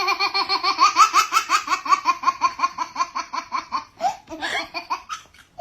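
A person laughing hard and high-pitched, a rapid run of about seven ha-ha pulses a second that breaks into shorter, uneven bursts about four seconds in.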